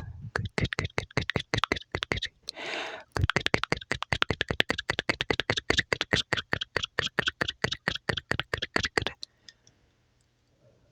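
A rapid run of sharp, crisp clicks, several a second, lasting about nine seconds, with a short breathy hiss about three seconds in.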